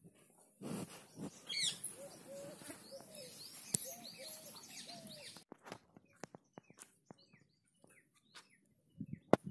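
Birds chirping and calling, with quick high chirps and a repeated lower call. About five and a half seconds in the sound drops away sharply, leaving scattered clicks and a few chirps, and there are a couple of louder knocks near the end.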